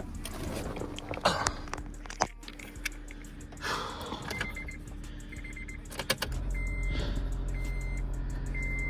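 Keys rattling and clicking at the ignition of an Acura TSX while a dashboard chime beeps, then about six seconds in the 2.4-litre four-cylinder engine starts and settles into a steady idle: its first start after a misfire repair.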